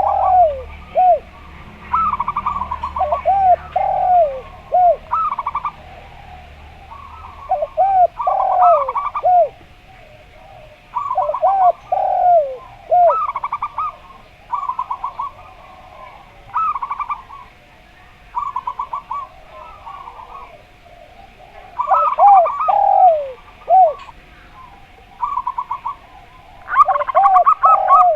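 Zebra dove (perkutut) and derkuku turtle-dove cooing back and forth. Short phrases of rapid, stuttering notes alternate and overlap with lower, arched, falling coos, repeating every second or two.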